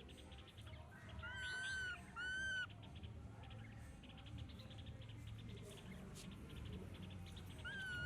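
Baby monkey crying: two high, arching squeals about a second in, each under a second long, and a third near the end. A fast ticking chirp repeats faintly behind them.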